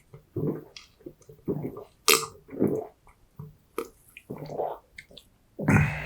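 Close, wet chewing and mouth sounds of someone eating, in short irregular bursts with a few sharp clicks and a louder burst near the end.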